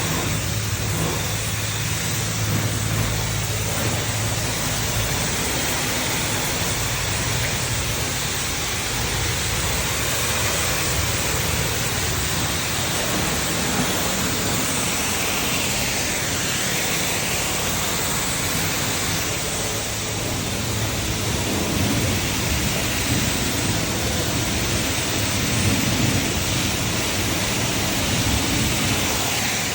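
Self-serve car wash high-pressure spray wand blasting water onto a car, a steady hiss like heavy rain over a low pump hum. The spray sound dips and returns about halfway through.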